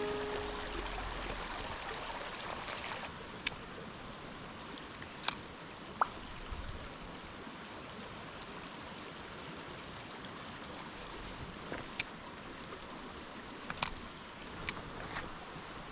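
Mountain stream flowing steadily, with a few sharp, isolated ticks scattered through it.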